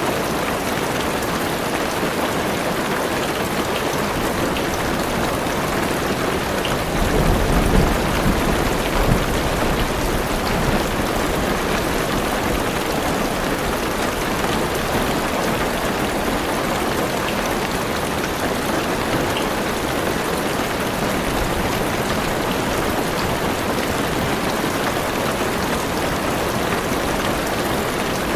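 Heavy rain pattering steadily on a car's roof and windows, heard from inside the car, with a low rumble of thunder swelling for a couple of seconds about seven seconds in.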